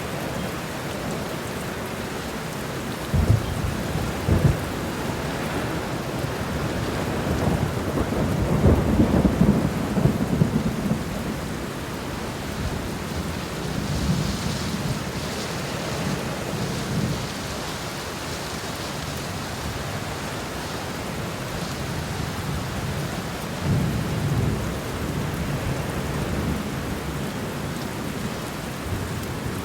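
Steady rain falling, with low rumbles: two short ones about three and four seconds in, a longer, louder one around nine seconds, and another past twenty seconds.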